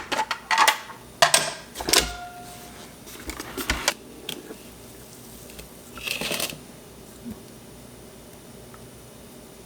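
Kitchen handling sounds as cookie dough is worked: a run of sharp clicks and knocks of utensils and bowl in the first four seconds, then a brief rustling scrape about six seconds in.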